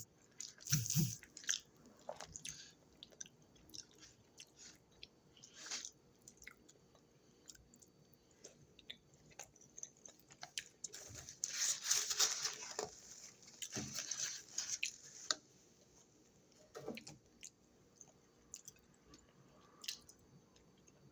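A person chewing and biting food close to the microphone: irregular mouth and crunching noises, busiest around the middle.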